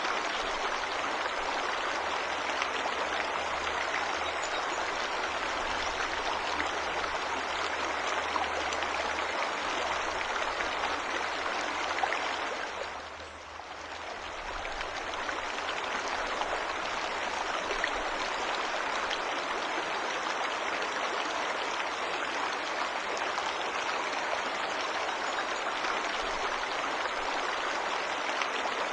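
Waterfall rushing steadily, a dense even hiss of falling water. It dips briefly about halfway through and comes straight back.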